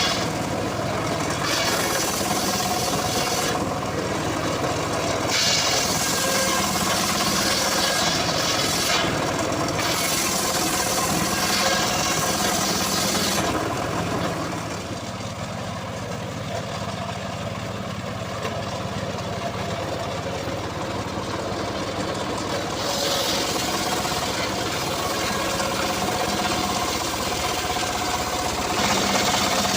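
Homemade engine-driven circular saw running steadily as its blade cuts through mahogany. The hissing noise of the cut comes and goes, easing off for several seconds in the middle and returning strongly near the end.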